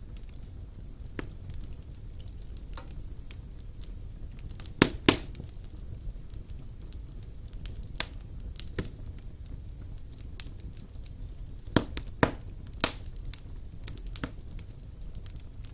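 Wood fire burning in a fireplace: a steady low rumble of the flames with scattered sharp crackles and pops from the burning logs. The loudest pops come as a pair about five seconds in and as a cluster around twelve seconds in.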